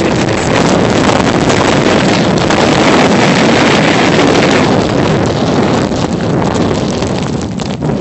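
Strong blizzard wind buffeting the camera's microphone: a loud, steady rushing roar that eases slightly near the end.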